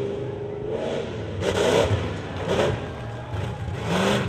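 Off-road race truck engine revving, with three short loud surges about a second apart.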